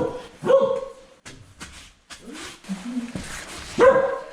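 A dog barking: short single barks, one about half a second in and another near the end, with a few faint clicks in the gap.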